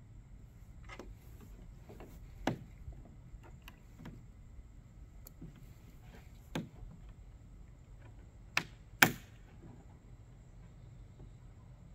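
Hard plastic parts of a resin deck box being handled and fitted together: scattered clicks and knocks, the loudest two sharp knocks about half a second apart around nine seconds in.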